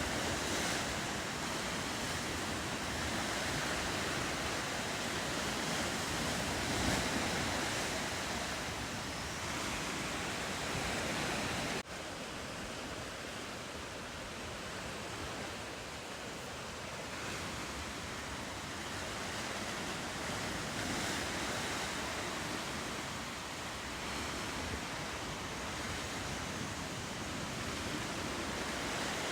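Ocean surf washing steadily, with a sudden break about twelve seconds in, after which it continues a little quieter.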